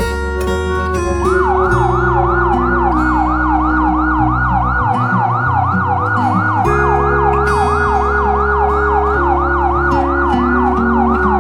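A fast yelping siren, its pitch sweeping up and down about three times a second, starting about a second in, over background music with a shifting bass line.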